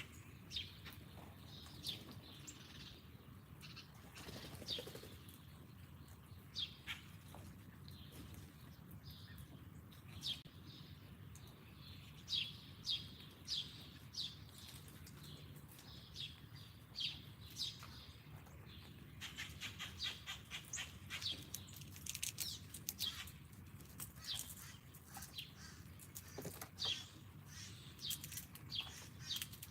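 Small songbirds chirping: many short, sharp chirps, with a quick run of them about twenty seconds in, over a low steady hum.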